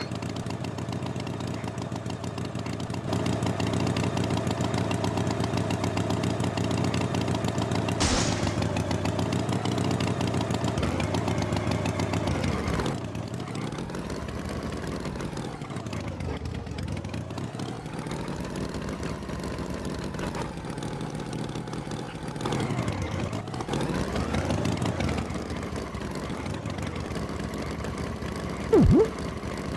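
Tractor engine sound effect running steadily, a little louder after a few seconds, then slowly sagging and rising in pitch twice in the second half. A brief, loud sweep comes near the end.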